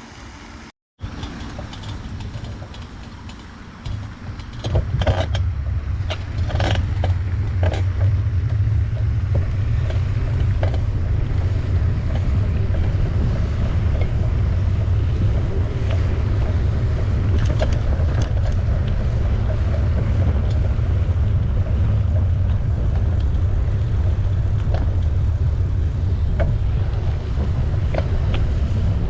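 Steady low wind rumble on the microphone of a camera riding along on a bicycle, with road and tyre noise and scattered clicks and knocks from the ride. The rumble comes in and grows after a brief dropout about a second in.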